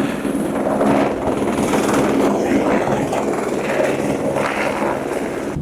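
Helicopter in flight: a steady, loud rotor and engine noise.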